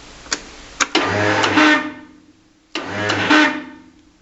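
Electric starter on a Kohler garden-tractor engine, engaged in two short bursts about a second long, each opening with a click and then a steady whir. The engine does not start, a sign of starter trouble on this cold start.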